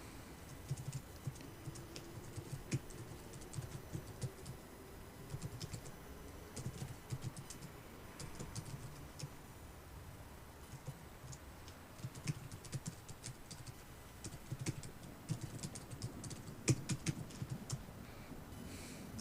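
Typing on a computer keyboard in irregular bursts of quick key clicks, over a faint steady background of rain and city ambience.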